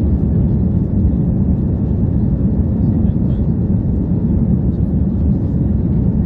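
Steady low rumble of an Airbus A340-300's four CFM56 jet engines, even throughout.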